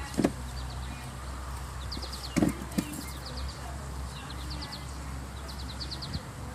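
A small bird singing short trilled phrases, each a quick run of four or five high, falling notes, again and again. There are a few dull knocks about a quarter second in and around two and a half seconds in, over a steady low rumble.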